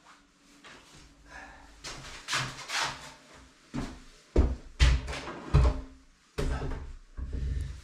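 Wood being knocked and handled: light knocks and scrapes, then three heavy thumps a bit past the middle, about half a second apart.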